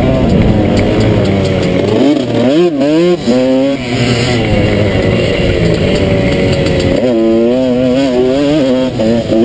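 Motocross dirt bike engine being ridden hard, revving up and down. Its pitch swings rapidly up and down about two seconds in and again about seven seconds in.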